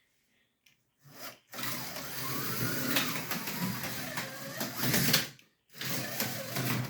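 HO-scale slot car running on the track, its small electric motor whirring with the wheels and pickups rattling along the rails. It runs in two spurts with a short stop between, which the owner puts down to a voltage problem.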